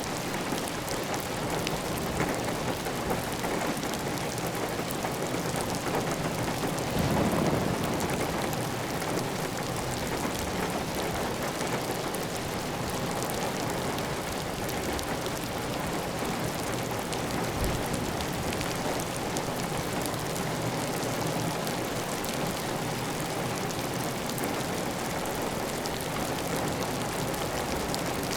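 Heavy, steady rain on a clay-tile roof, with water running off the roof edge. The rain swells briefly about seven seconds in.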